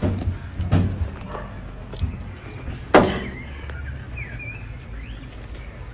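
A few sharp knocks over a low steady rumble, the loudest knock about three seconds in.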